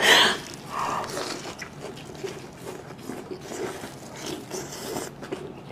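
Close-miked eating sounds: a loud crisp bite into a fresh lettuce leaf at the start, a second crunch about a second in, then continued chewing with small irregular crunches.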